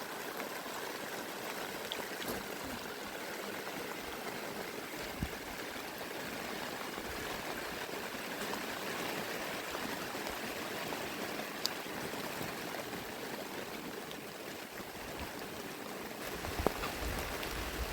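Steady rain falling, an even hiss of water with a few faint taps and ticks.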